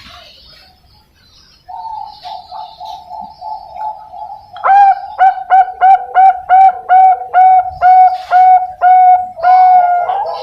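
Young zebra dove (Bangkok perkutut) singing. A soft rapid trill comes first, then a run of loud, clipped coos at about three a second, ending on one longer note.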